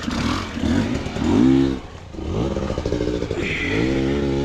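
Dirt bike engine revving in short throttle blips, the pitch arching up and down several times, dropping away about two seconds in, then climbing again and holding a steady, wavering note.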